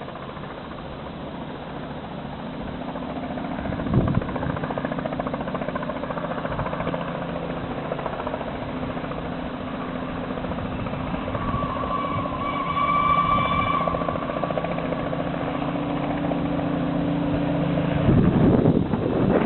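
Steam locomotive 60163 Tornado, a Peppercorn A1 Pacific, working past with a steady running noise that slowly grows louder. There is one sharp knock about four seconds in and a high steady tone lasting about two seconds near the middle.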